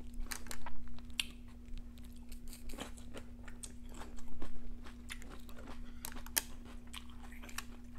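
A person biting and chewing crisp raw red bell pepper, with irregular wet crunches, loudest about half a second in and again around four and a half seconds in.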